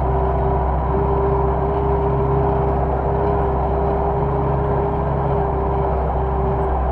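Belarus MTZ tractor's four-cylinder diesel engine running steadily under ploughing load, with a constant low rumble and an even whine over it.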